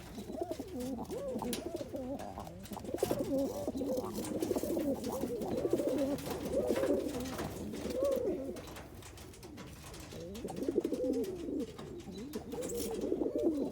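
Roller pigeon cock birds cooing, several voices overlapping in a near-continuous low warbling.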